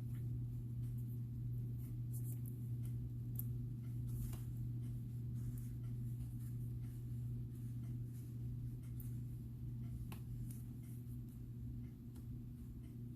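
A steady low hum, with a few faint, light clicks of glass and gemstone beads being handled and strung.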